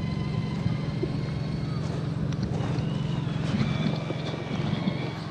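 Electric motor and gears of a radio-controlled scale crawler truck whining as it drives, the high whine shifting pitch a couple of times, over steady wind noise on the microphone.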